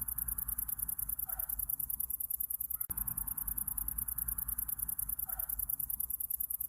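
Summer night ambience of insects, such as crickets, chirping in a high, rapid, even trill over a softer hiss. A short call recurs about every four seconds.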